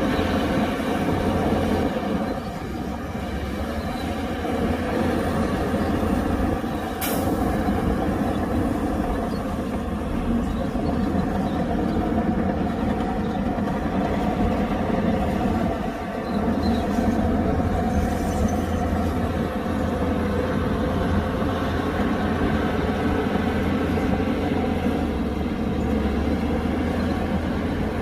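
Heavy diesel earthmoving machinery running steadily, with one sharp knock about seven seconds in.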